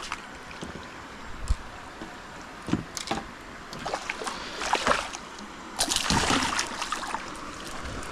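Water splashing and sloshing beside a kayak as a hooked Australian bass is fought to the boat: a few short splashes, then a longer, louder splash about six seconds in.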